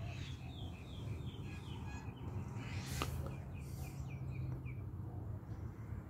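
A bird calling in two runs of five or six short, quick descending notes, about three notes a second, with a single sharp click about three seconds in, over a steady low background rumble.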